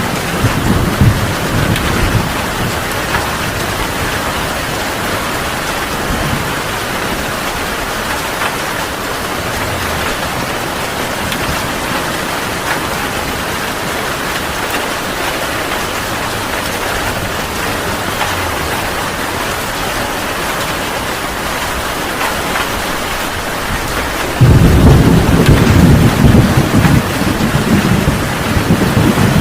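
Heavy rain falling steadily, with a low rumble of thunder dying away in the first couple of seconds. A loud thunderclap breaks in suddenly near the end and keeps rumbling.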